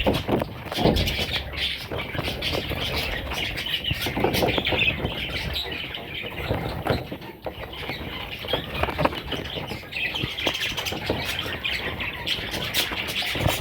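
Baby budgerigars squawking and chirping continually, with many small scratches and knocks among them.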